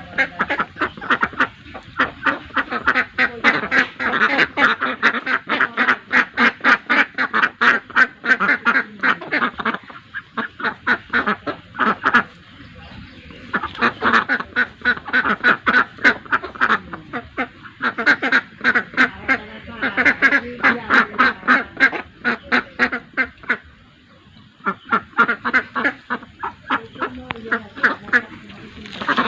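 Desi (Indian native) domestic ducks quacking in fast runs of short calls, several a second, broken by brief lulls.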